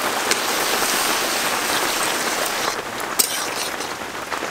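Onion, capsicum and tomato frying in a thick soy-and-tomato sauce in a metal wok with a steady sizzle. A metal spatula stirring the pan gives two sharp clicks, one just after the start and one about three seconds in.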